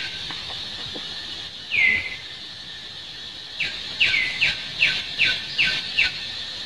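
A bird calling over a steady high-pitched background hiss: one downward-slurred whistled note, then a quick run of about seven short falling chirps, a little over two a second.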